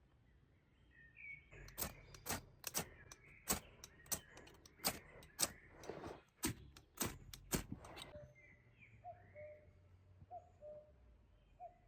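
A run of about a dozen sharp knocks or cracks, roughly two a second, which stops a few seconds before the end. Birds chirp faintly throughout, and a bird gives a short low call several times over near the end.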